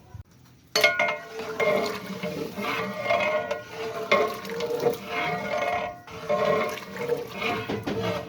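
Water churning in a large pot of rice on the boil for pulao, starting suddenly about a second in and swelling and easing roughly once a second.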